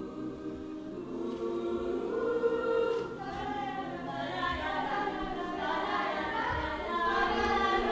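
A choir singing sustained, overlapping notes in harmony. The sound swells, with higher voices joining about four seconds in and growing louder toward the end.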